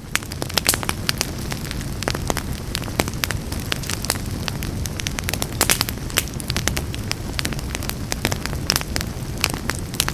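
Wood fire crackling in a fireplace: many sharp irregular pops and snaps over a steady low rumble of the flames.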